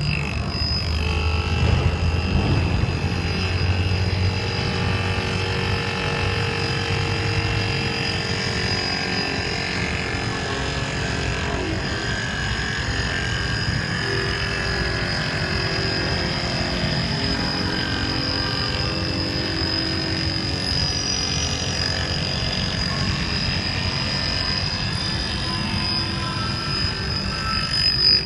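Chaser grinder running steadily: the motor and spinning grinding wheel give a constant high whine over a hum of machine noise.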